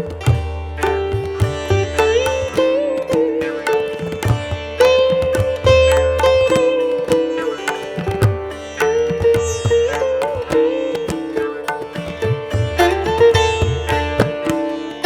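Instrumental background music in an Indian classical style: a plucked string melody with sliding pitch bends over a steady low bass.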